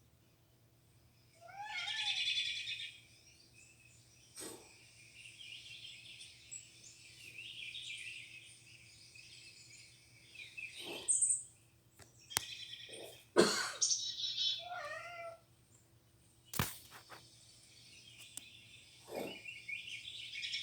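Songbirds chirping and singing, played back from a bird video, with several sharp clicks or taps in between, the loudest about 13 seconds in.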